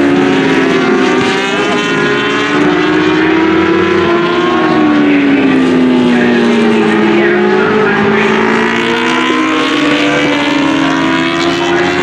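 Several racing engines running at once at high revs, their pitches rising and falling as they accelerate, lift and change gear.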